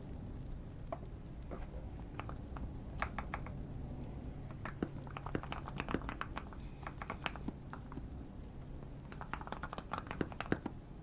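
Typing on a modded Keychron Q1 mechanical keyboard: quick runs of keystrokes in bursts with short pauses between, over soft fireplace crackling.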